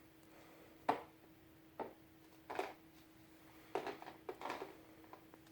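A handful of short, sudden knocks and taps at uneven intervals over a faint steady hum.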